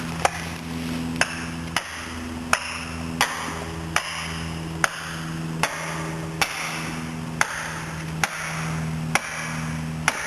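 Steady, evenly paced hammer blows, about one every 0.8 seconds, driving a felling wedge into the back cut of a large fir that is still standing tight. A chainsaw idles steadily underneath.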